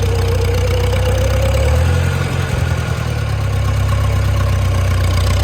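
Farmall Super C tractor's four-cylinder gasoline engine running steadily while the tractor is driven along, with a brief change in the engine note about two seconds in.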